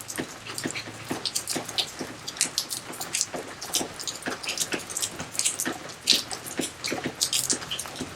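Rain and water dripping and plopping into a garden fish pond, as many small, irregular drops and splashes over a soft watery hiss.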